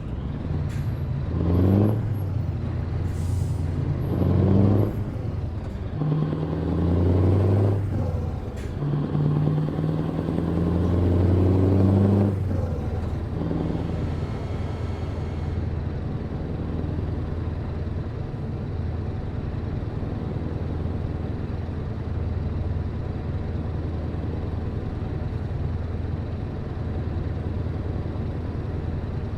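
Truck's diesel engine accelerating through the gears, its note rising four times with brief drops at each gear change in the first twelve seconds, then running steadily at cruising speed.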